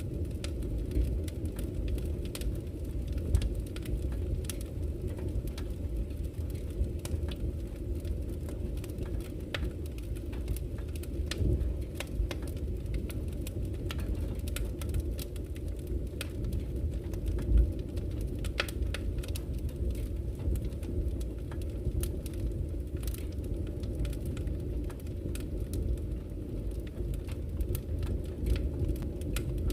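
Wood campfire crackling, with frequent small sharp pops and snaps at irregular intervals, over the steady low rush of a flowing river.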